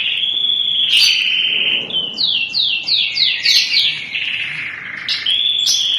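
Crested domestic canary singing: a long rolling trill, a run of about seven quick falling whistled notes, then the trill again.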